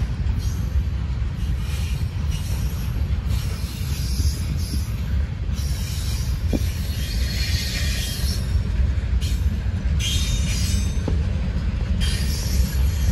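Freight train cars rolling slowly past with a continuous heavy rumble, and high-pitched wheel squeal that comes and goes every few seconds.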